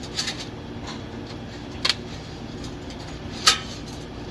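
Three sharp metallic clanks, a second and a half or so apart, the last the loudest, as the cut exhaust clamp is pried off the pipe with a metal tool, over a steady low hum.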